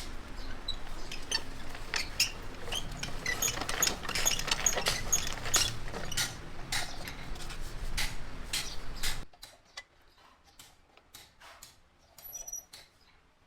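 Sheet metal being worked by hand: rapid, irregular light metallic clicks and taps, some with a brief high ring. About nine seconds in, the sound drops off abruptly to faint, scattered clicks.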